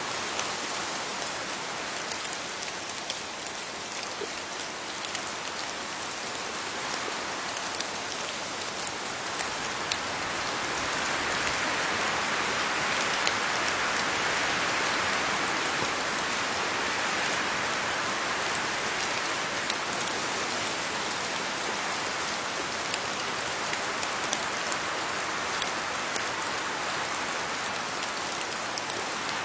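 Steady rain falling on leaves, with a dense patter of individual drops over a continuous hiss. It grows somewhat heavier about ten seconds in.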